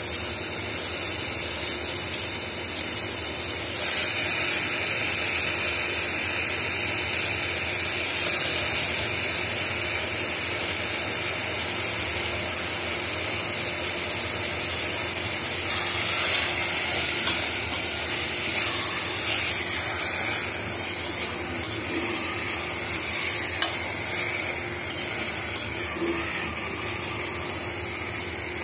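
Onion-tomato masala sizzling steadily in a stainless-steel pressure cooker as raw goat intestines (boti) are added, with a spoon stirring them in.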